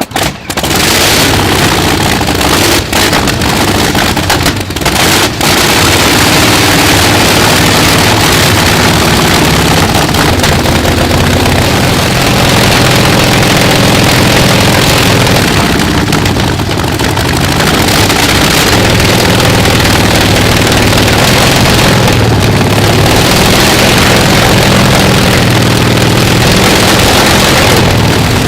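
Antonov An-2's nine-cylinder Shvetsov ASh-62 radial aircraft engine running loud. It stumbles with several brief dips in the first few seconds, then runs steadily, a start struggling in cool, damp conditions.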